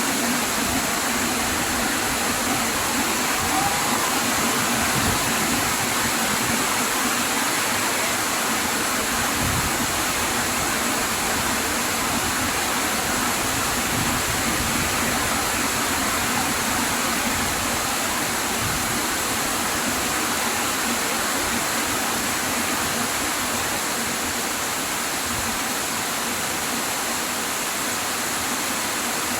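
Heavy rain pouring down steadily in a summer rainstorm, an unbroken hiss of falling water.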